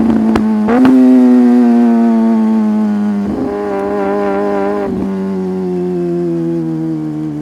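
Sport motorcycle engine running under way, its note slowly falling as the bike slows, broken by quick gear changes near the start, about a second in, and twice more around the middle.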